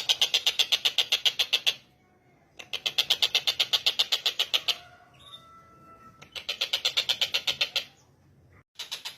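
Stork-billed kingfisher (tengkek buto) giving its rapid chattering call, about ten sharp notes a second, in three bursts of roughly two seconds with short pauses between, and a fourth burst starting near the end. Faint thin whistled notes sound in the middle pause.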